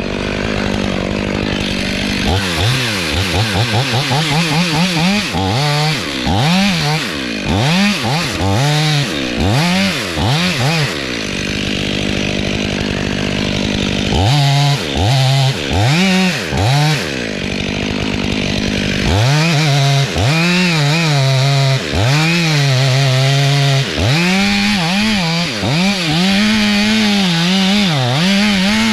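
Two-stroke chainsaw idling, then revved and run under load in repeated surges, its engine pitch rising and dropping quickly as it cuts; it settles back to idle twice, then runs more steadily near the end. Typical of cutting a deep notch into a leaning dead log.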